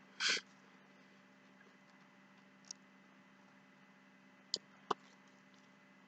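Quiet eating noises over a low steady hum: a short noisy burst near the start, then three faint clicks, the last two close together near the end.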